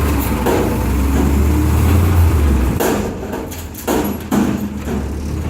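Garbage truck engine running loud, its low hum dropping off about halfway through, followed by several sharp bangs and knocks from the truck's working gear.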